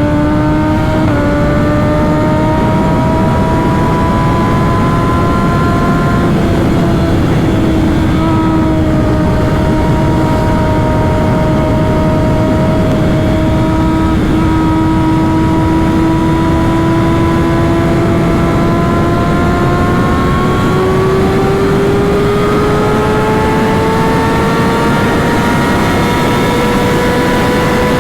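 Kawasaki ZX-6R 636 inline-four engine pulling at steady high revs on the highway, its pitch climbing slowly over the last several seconds under load. Wind rushes over the microphone throughout.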